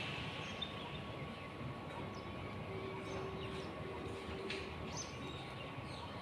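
Outdoor ambience: a steady background wash with a few faint, short bird chirps, and a low note held for about two seconds in the middle.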